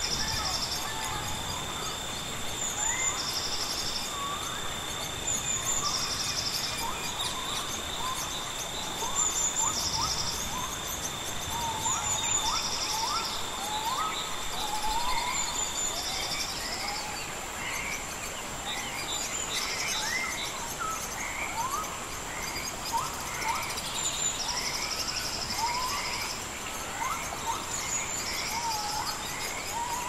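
Rainforest ambience: many birds calling in short whistles that sweep up and down, over an even background hiss. Insects sing with a steady high-pitched whine throughout, a second steady tone that stops about halfway, and a short buzzing trill repeating every two to three seconds.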